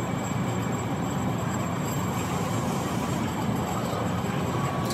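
Steady rumbling of a train running on the rails.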